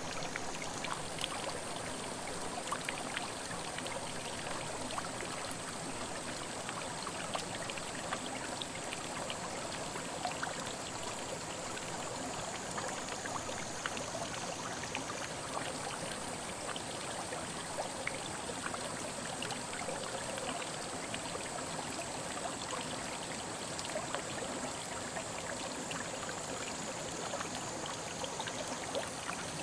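Mountain headwater stream flowing: a steady rush of water with many small splashes and trickles.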